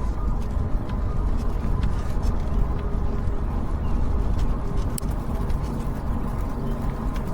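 Wind and road noise from a moving e-bike ride: a steady low rumble over the microphone, with a few light clicks.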